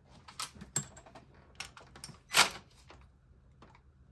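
Scattered clicks and light clinks of hand tools and engine parts being handled during an ignition coil and spark plug swap, with one louder, brief knock about two and a half seconds in.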